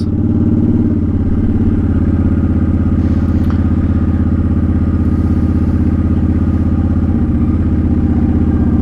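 Honda Shadow Spirit 750's V-twin engine running steadily, with a slight change in pitch about seven seconds in.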